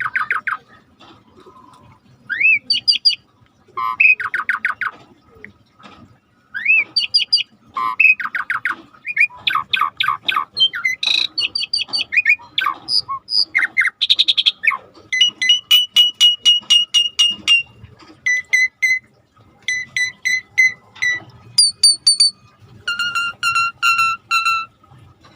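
Pied starling (jalak suren) singing actively: loud whistled phrases of rising notes, then long runs of quickly repeated clear notes, with short pauses between phrases.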